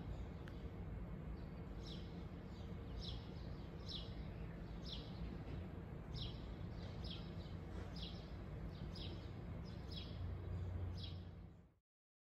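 Small birds chirping, a short falling chirp about once a second, over a steady low outdoor rumble. The sound cuts off suddenly near the end.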